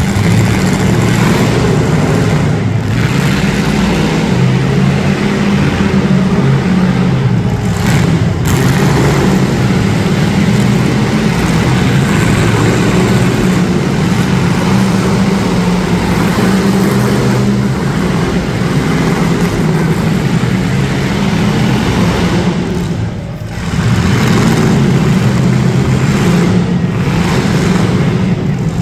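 Several street stock demolition derby cars' engines running and revving loudly at once, with a short lull about two-thirds of the way through.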